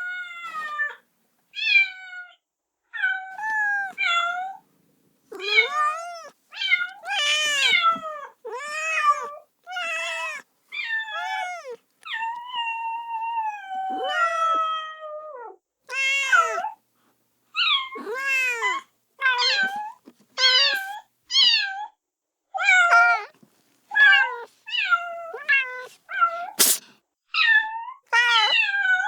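Kitten meowing over and over, calling for its mother: short high-pitched meows roughly one a second with brief gaps between them, and one longer, drawn-out call about halfway through. A single sharp click comes near the end.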